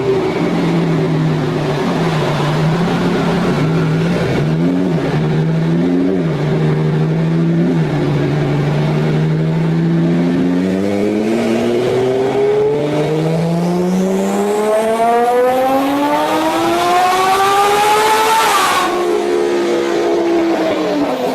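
Boosted Lamborghini Huracán V10 running on an all-wheel dyno: a steady cruise with two quick throttle blips, then one long rising full-throttle pull, then lifting off with a sudden drop in revs near the end.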